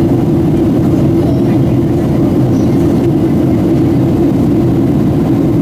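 Steady, deep cabin noise inside a Boeing 737-700 airliner in flight, engine and airflow noise running at an even level.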